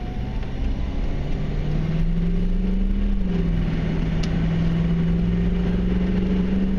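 1994 Chevy Silverado K1500's 6.5-litre turbo-diesel V8 pulling the truck up to road speed; its pitch rises, drops once about three seconds in, then climbs slowly again.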